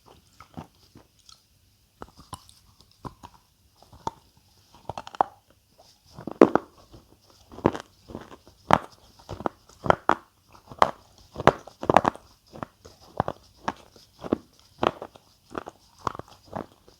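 Close-miked crunching: a person biting into and chewing crisp food. A few scattered bites at first, then steady crunchy chews a little more than once a second from about six seconds in.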